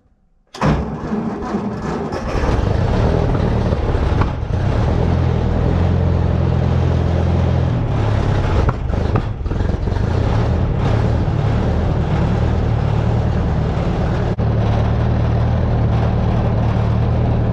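Ford Jubilee tractor's engine comes in abruptly about half a second in and runs steadily.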